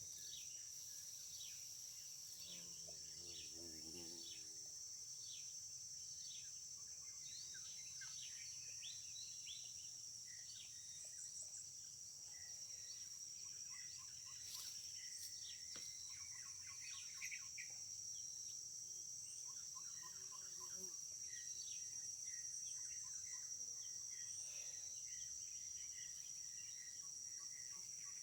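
Insects keeping up a steady, high-pitched drone, with many short bird chirps scattered over it.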